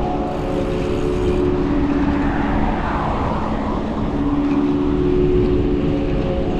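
Wind buffeting the microphone and tyre rolling noise of a gravel bike being ridden, with a steady hum that fades in the middle and comes back stronger near the end.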